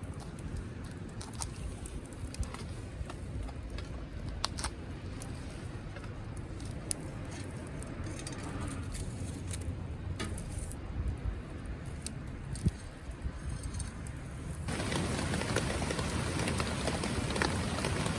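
Wood campfire crackling, with scattered sharp pops over a low rumble. About fifteen seconds in, the sound switches abruptly to a steadier, denser hiss.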